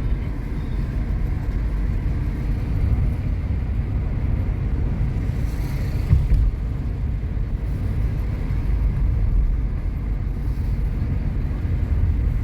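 Steady low engine and road rumble of a vehicle driving along a road, with a brief bump about six seconds in.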